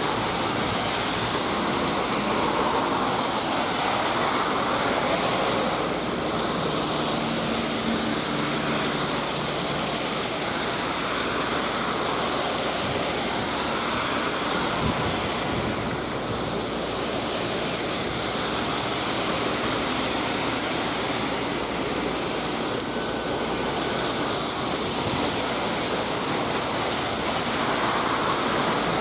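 Heavy rain pouring onto a wet road, a steady hiss that swells and eases every few seconds, with cars swishing past on the wet road, one near the end.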